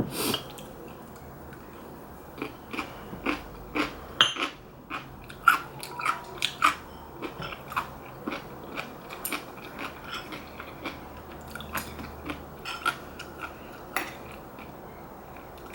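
A person chewing kimchi close to the microphone, with irregular crisp crunches and wet chewing sounds.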